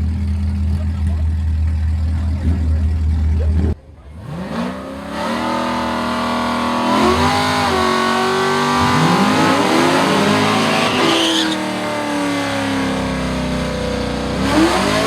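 Car engine idling with a steady low rumble, then, after a sudden break about four seconds in, race car engines revving hard under acceleration, the pitch climbing and dropping again and again as they pull through the gears on a drag-race pass.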